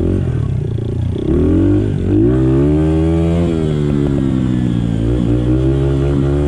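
Small Honda 50cc dirt bike engine running under throttle. The revs climb sharply about two seconds in, hold, then ease off and waver as the bike rides over bumps, with some clatter.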